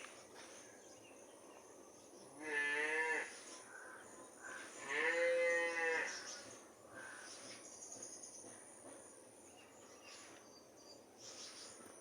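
A cow mooing twice: a shorter call, then a longer, louder one a couple of seconds later.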